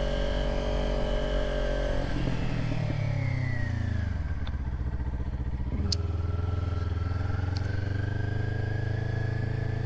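Kawasaki Ninja 400 parallel-twin engine heard from the rider's seat while riding. The revs fall over a couple of seconds as the bike slows, then pick up again about six seconds in and hold steady at low revs.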